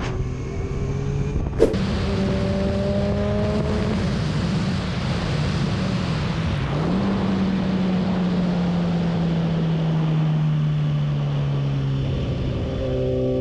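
Motorcycle engine running with wind rushing past, its note holding steady, rising briefly about seven seconds in, then slowly falling off. A sharp click about a second and a half in.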